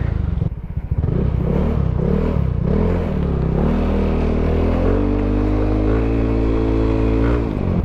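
Motorcycle engine under way, its pitch climbing and dropping several times as it pulls through the gears, then holding a steady pitch before falling away near the end.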